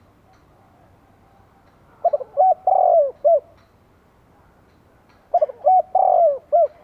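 Spotted dove cooing: two phrases about three seconds apart, each a few short coos around one longer, drawn-out coo.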